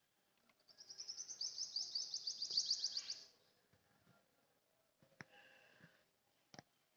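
A bird singing a fast, high trill of about ten notes a second, growing louder over about two and a half seconds before stopping. Fainter chirps and two sharp clicks follow in the second half.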